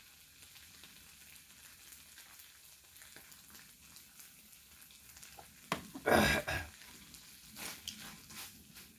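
Marinated webfoot octopus sizzling faintly in a frying pan on a camping gas stove. About six seconds in, a man gives one loud throaty exhale. A few soft clicks of chopsticks against the pan follow near the end.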